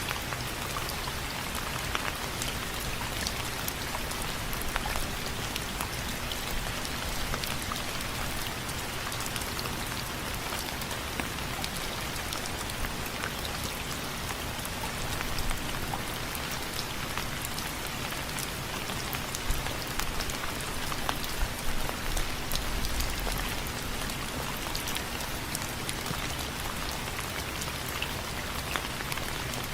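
Steady rain pattering on window frames: a dense haze of small drop hits with a few louder single drops now and then.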